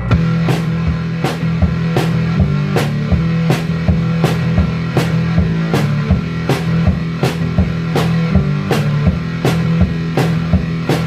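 Instrumental rock music: a drum kit keeping a steady beat, with hits about every three quarters of a second, over held bass and guitar notes.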